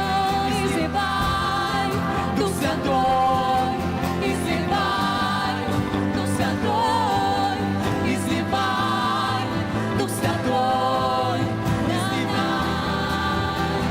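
Christian worship song: singing with vibrato on held notes over a steady instrumental accompaniment.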